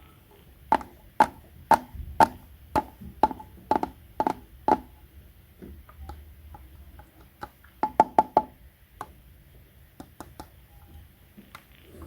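A knife cutting toy fruit on a cutting board: nine sharp, ringing knocks at about two a second, then a quick run of four and a few light clicks.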